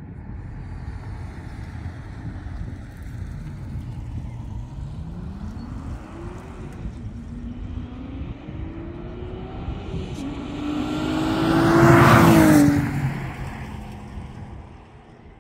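A car accelerating hard at full throttle, its engine note climbing through the gears with two shifts, then passing close by about twelve seconds in, where it is loudest, and dropping in pitch as it fades away.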